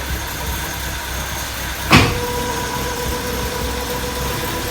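BMW E36's freshly swapped M43 four-cylinder engine idling steadily. There is one sharp knock about two seconds in, and a steady whine starts right after it.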